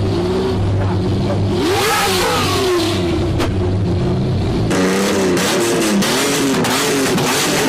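Lamborghini Diablo's V12 engine running and revving, with a pitch rise and fall about two seconds in. About five seconds in, the sound changes abruptly, losing its deep low rumble and turning sharper and more crackly.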